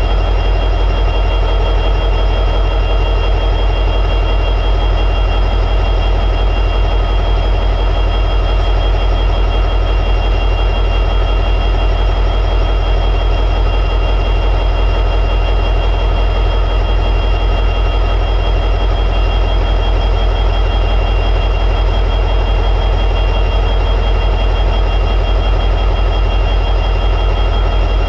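EMD 710G3B two-stroke diesel prime mover of an SD60E locomotive running steadily in high idle, with a strong low hum and a few steady higher tones.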